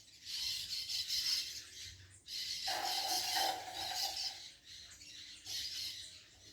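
Birds calling in bursts, a flickering, hissy chatter in three stretches, with a lower call joining in the middle.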